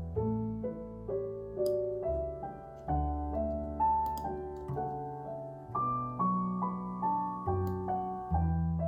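Calm background piano music: a slow melody of single notes over held low bass notes, with a few faint clicks.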